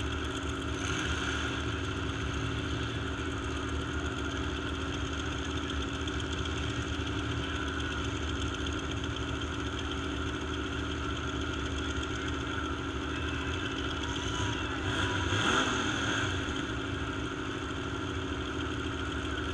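Demolition derby trucks' engines idling together in a steady hum, with one swelling louder briefly about three-quarters of the way through.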